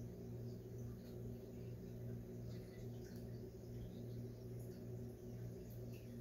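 Faint, scattered chirps of small birds in the background over a steady low hum.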